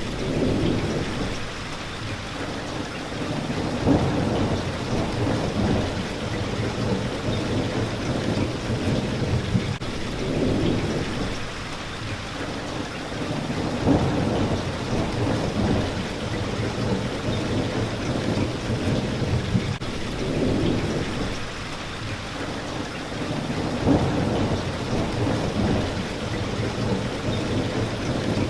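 Steady rain beating on a window pane, with low rumbles of thunder swelling and fading every few seconds.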